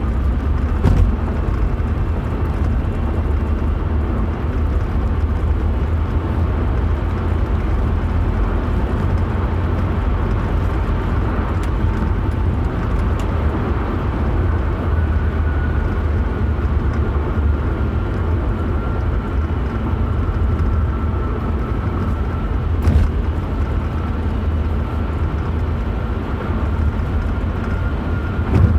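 Car on the move with a steady deep rumble of engine and road noise, and a faint high whine above it that becomes clearer about halfway through. A few light knocks stand out briefly.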